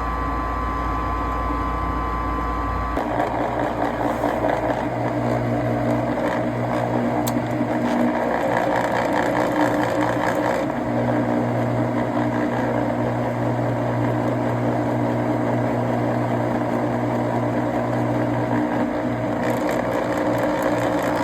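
Lennox furnace draft inducer motor running steadily, with its mounting strap tightened to cut its noise. The sound changes abruptly about three seconds in and again around ten seconds in.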